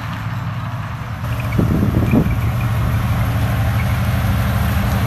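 Motor vehicle engine running with a steady low drone, growing louder about a second in.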